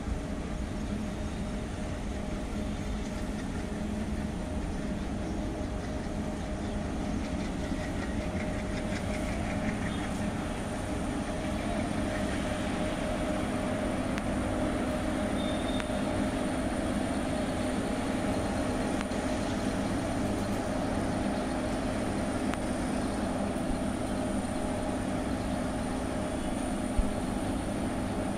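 Passenger train of ICF coaches pulling out and rolling away along the track: a steady rumble with a low hum and a thin high whine. One brief knock near the end.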